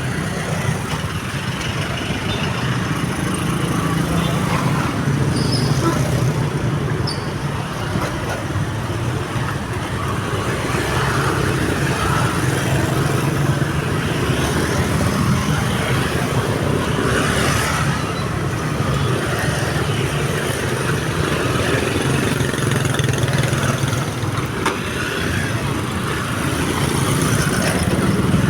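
Steady road traffic at a railway level crossing: motorcycle and car engines running and passing.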